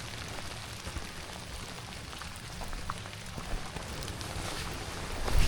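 Steady rain falling, with scattered single drops ticking close by and a low thump near the end.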